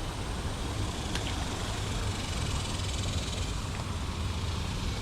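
Steady low rumble of distant road traffic, with one faint click about a second in.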